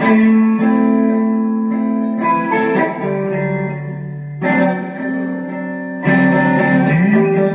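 Guitar playing sustained chords between sung lines of a gospel song, with a new chord struck about every two seconds and a short rising slide near the end.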